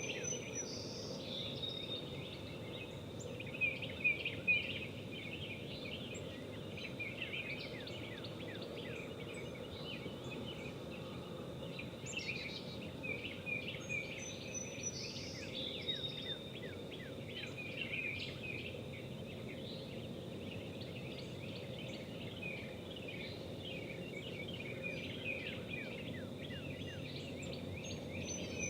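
Outdoor morning ambience: birds chirping with many short falling calls over a steady background hiss and a faint, steady high tone. A few brief louder sounds come about four seconds in.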